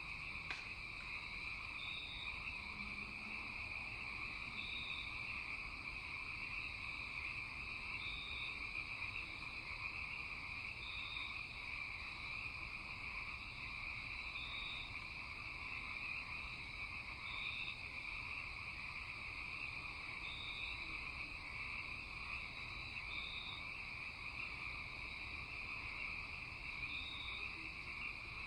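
Night chorus of frogs and insects: a steady high-pitched trill, with a short higher call repeating every couple of seconds.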